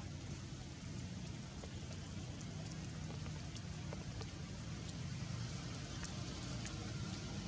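Steady rain falling, with scattered sharp ticks of drops hitting close by.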